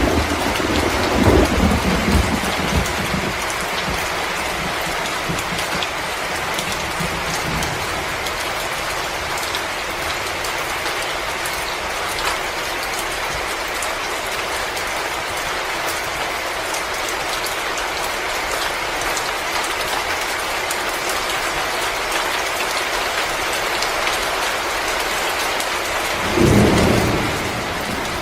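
Steady storm ambience: an even rain-like hiss with faint scattered ticks, and a low rumble over the first couple of seconds and again near the end.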